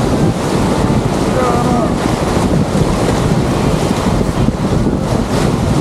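Loud, steady rushing of river rapids, with wind buffeting the microphone.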